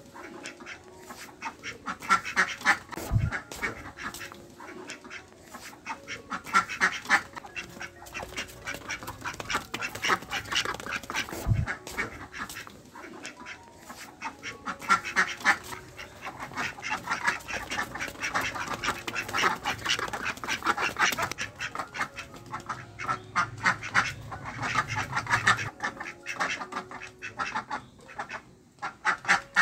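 Several ducks quacking, rapid chattering calls that come in runs every few seconds.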